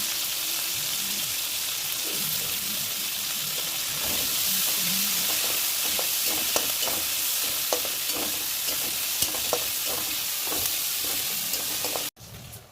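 Onion and curry leaves sizzling in hot mustard oil in a kadhai while being stirred, a steady frying hiss with scattered sharp crackles. It cuts off suddenly near the end.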